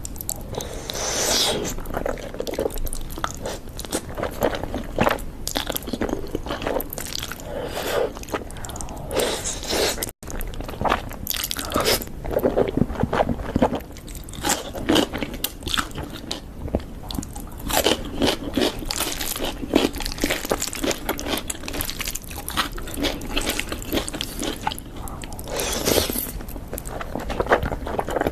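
A person eating close to the microphone: repeated bites, crunching and chewing in an irregular stream, with two short edit cuts.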